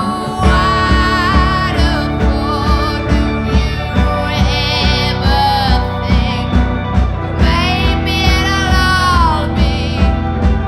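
Indie rock band playing live: a woman sings long held and sliding notes over guitar, bass and a steady drum beat.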